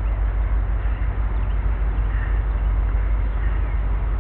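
A steady low rumble with a few faint bird chirps over it, each a short falling note.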